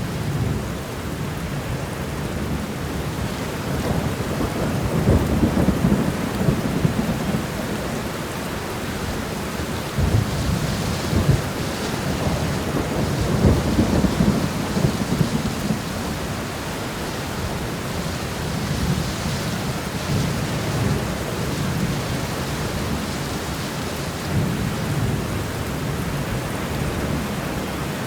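Steady heavy rain falling, with low rolls of thunder rumbling several times through it.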